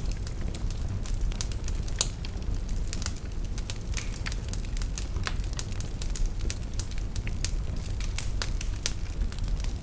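Wood fire burning in a fireplace: irregular sharp crackles and pops over a steady low rumble of the flames, with one louder pop about two seconds in.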